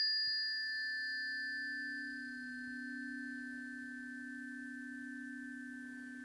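Two planetary tuning forks, tuned to Mercury and Juno, ringing after being struck: two close low tones with a slow wavering beat and faint higher overtones, fading gradually.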